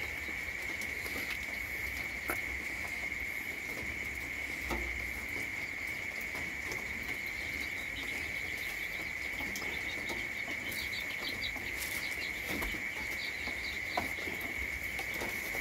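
Steady, unbroken high-pitched insect chorus, with a few faint scattered clicks and taps.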